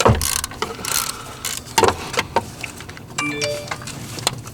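Hand socket ratchet clicking, with metal clinks and knocks of tools on bolts, in irregular short runs.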